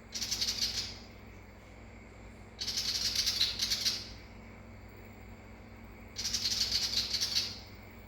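Willie wagtail giving its harsh scolding chatter: three rasping bursts of rapid clicks, each about a second long, with pauses of a couple of seconds between.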